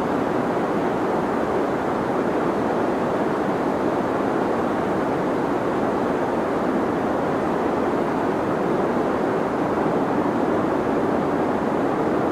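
Deep white noise: a steady, even rush with most of its weight in the low and middle range and little treble, unchanging throughout.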